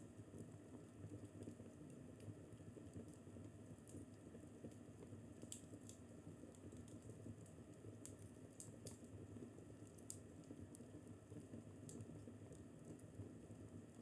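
Fireplace crackling quietly: scattered small pops and snaps over a low steady rumble of the fire, with one sharper pop about ten seconds in.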